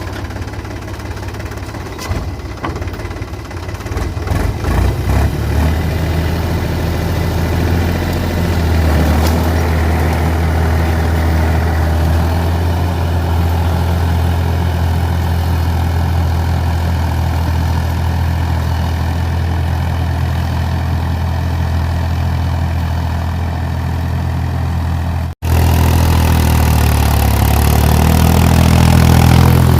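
Tractor's diesel engine running, picking up over the first several seconds and then running steadily, with a momentary break in the sound near the end.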